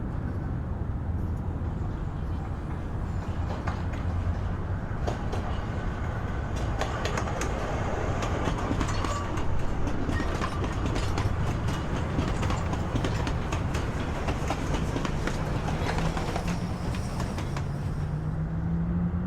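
Gauge 1 (Spur 1) model train running on the layout: a steady low running hum with frequent quick clicks of wheels over the track, and a low tone rising in pitch near the end.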